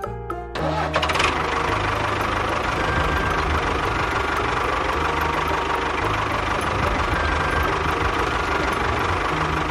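A small engine running steadily, starting about a second in after a moment of music and cutting off near the end as music returns.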